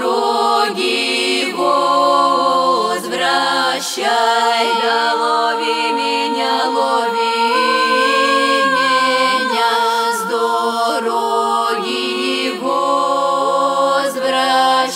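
Russian folk vocal group singing a cappella in several-part harmony, with long held notes and short breaks between phrases.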